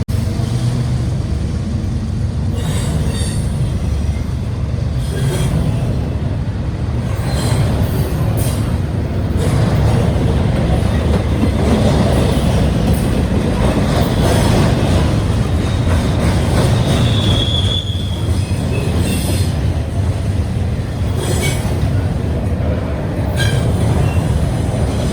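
Union Pacific double-stack intermodal train rolling past: a steady loud rumble of steel wheels on rail, with scattered sharp clicks and a brief high wheel squeal about seventeen seconds in.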